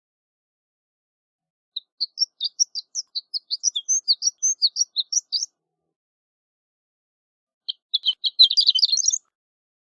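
Horned lark singing: a run of short, high chirping notes, about five a second, lasting a few seconds. After a pause, a faster, more crowded jumble of notes comes near the end.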